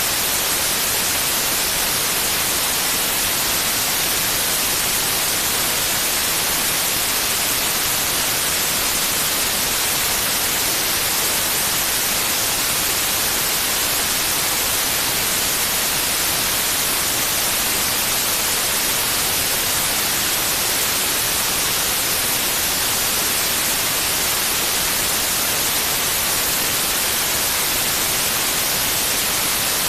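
Steady white noise, an even hiss that is strongest in the high range and does not change, played as a sleep aid for babies.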